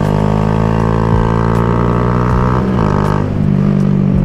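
Honda Grom's single-cylinder engine pulling steadily under throttle, its pitch slowly rising, with a brief dip about two and a half seconds in before it pulls on again.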